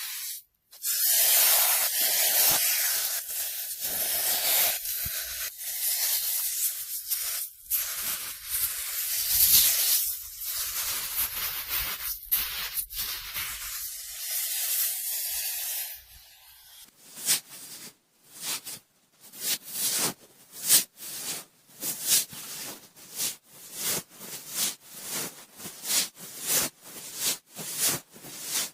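Cotton swab rubbing and swirling in the ear of a binaural microphone, a close, dense scratchy rustle. About halfway through it changes to short separate strokes, roughly two a second.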